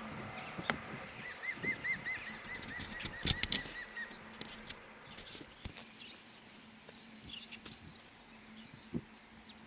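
Wild birds calling and singing, one giving a fast run of about a dozen repeated chirping notes that slows and fades over about three seconds, with scattered higher chirps. A faint low rumble in the background dies away about four seconds in.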